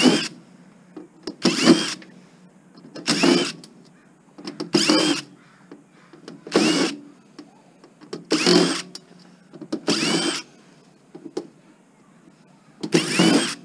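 A power drill run in short trigger pulls, about eight in all, each a brief whine that rises as the motor spins up, backing screws out of a DVD player's metal case.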